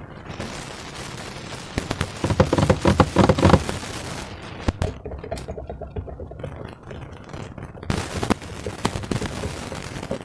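Slime being squished and worked by hand, a dense run of wet crackles and pops as trapped air bursts in it. The pops are loudest and thickest between about two and three and a half seconds in, with another loud patch near eight seconds.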